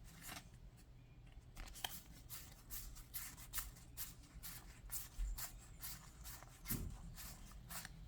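Faint handling of Yu-Gi-Oh! trading cards: a quick run of short rubs and light clicks as cards are slid and sorted by hand, over a low steady hum.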